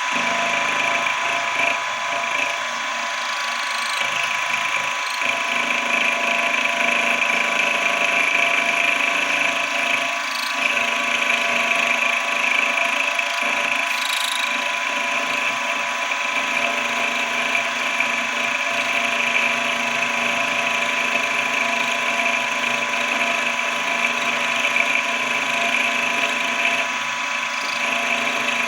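Small benchtop machine tool running steadily: an even motor whine with several steady tones and a few faint clicks.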